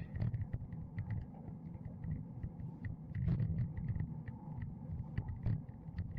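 Low wind rumble on the microphone of a camera riding along on a bicycle, with scattered light clicks and rattles.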